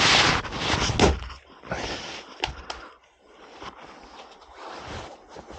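Axe work on firewood: one sharp strike about a second in, followed by lighter knocks and rustling as the wood and axe are handled.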